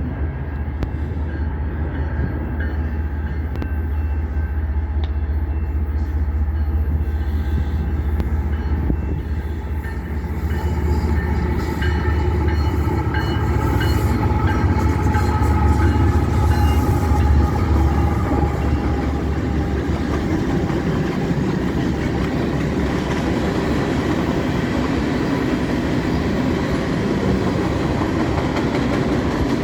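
CPKC freight train departing: the diesel locomotives' deep engine rumble dominates, then eases after about eighteen seconds as the freight cars roll by with a steady rolling noise.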